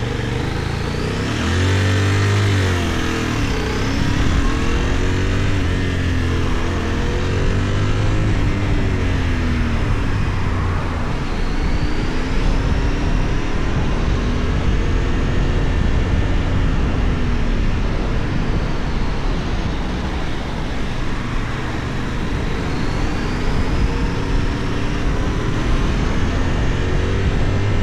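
Benelli Tornado 550's 554 cc parallel-twin engine under way on the road, revs rising and falling several times as the bike accelerates and slows through the gears, over a steady rush of wind and road noise.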